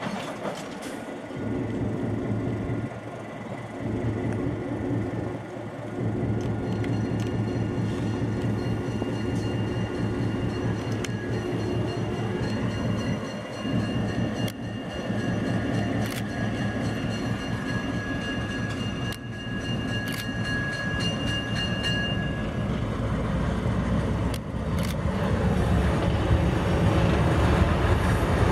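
Small Plymouth switcher locomotive running as it moves a Pennsylvania Railroad N5b caboose past at low speed. The wheels click over rail joints, and a faint high squeal holds through the middle. The train gets louder as it comes close near the end.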